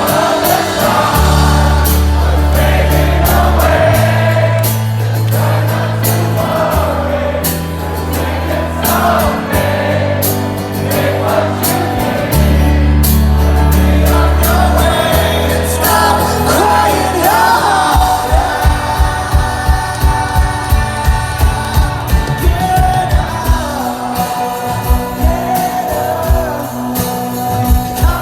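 Live rock band playing a slow ballad with sung vocals over long held bass notes. About eighteen seconds in, a steady kick drum comes in at about two beats a second.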